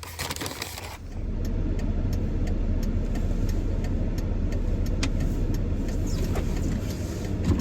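A motor vehicle's steady low rumble that comes in about a second in, with faint regular clicks over it.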